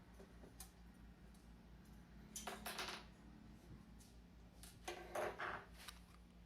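Hand tools and small parts being handled while a Columbia automatic drywall taper is taken apart: faint clicks, then two short bursts of rattling and scraping about two and a half and five seconds in, over a steady low hum.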